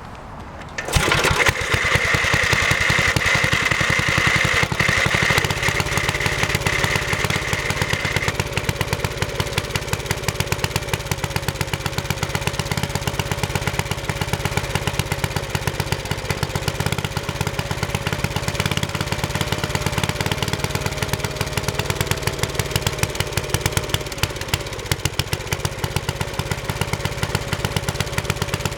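Briggs & Stratton 8 HP I/C single-cylinder engine starting on choke about a second in and then running steadily, with a thin high whine over it for the first several seconds.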